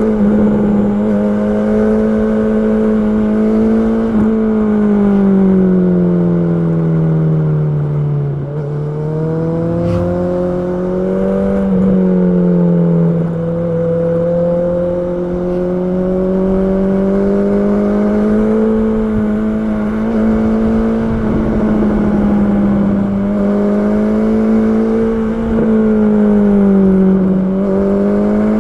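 Honda CB650R's inline-four engine running under steady load while ridden. Its pitch falls as it slows about eight seconds in, climbs gradually back, and dips briefly again near the end.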